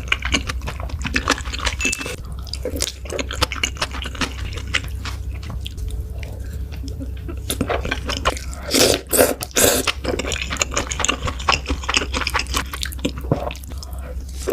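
Close-miked eating sounds: wet chewing and biting with many small mouth clicks. There is a louder stretch of bites about nine seconds in, over a steady low hum.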